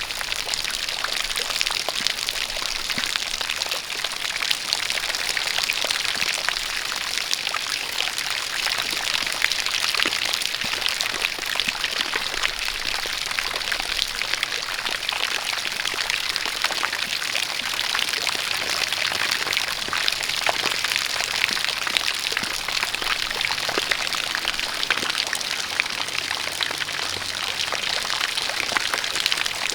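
Steady rain with a dense patter of drops, mixed with a running stream of water pouring down.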